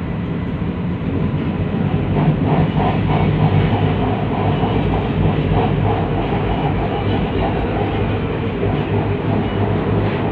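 Inside a car of a Kuala Lumpur MRT metro train: the steady rumble and hum of the train running on its track, getting a little louder about two seconds in.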